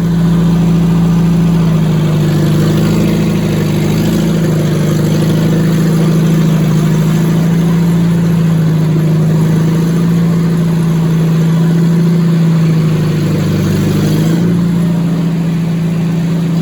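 Farmall 656 tractor engine running steadily at low speed while it is being parked. Its pitch steps up slightly near the end.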